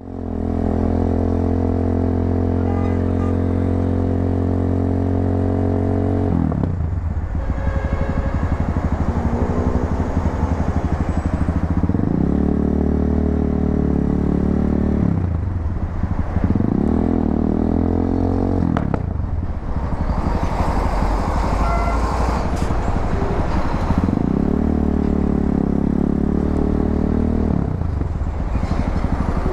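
250cc motorcycle engine with an aftermarket muffler, idling steadily for about six seconds. It then pulls away, its exhaust note rising in pitch through several accelerations.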